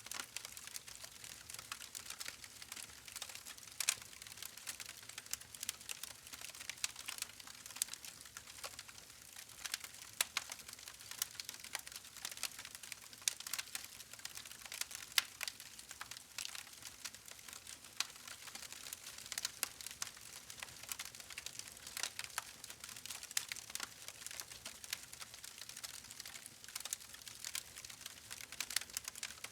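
Wood fire crackling: a steady hiss with dense, irregular snaps and pops throughout.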